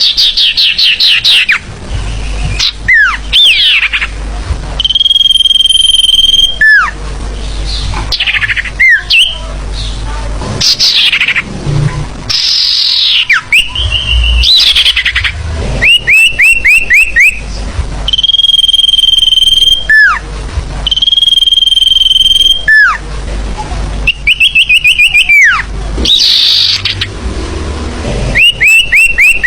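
Bird-lure recording of forest bird song, loud and dense. Long steady high whistles, each ending in a downward slur, alternate with quick runs of four to six falling chirps and rapid trills.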